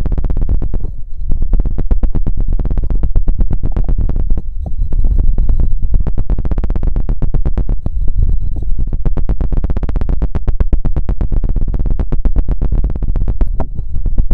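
Very rapid scratching and knocking on an ASMR microphone with a feather rod, a dense stream of quick strokes over a deep rumble from the mic.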